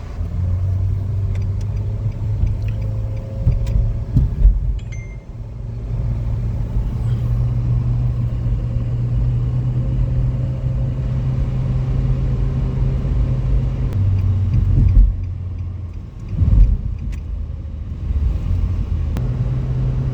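Car driving: a steady low engine drone with road rumble. The engine note shifts pitch a few times in the second half, and there are a few dull thumps.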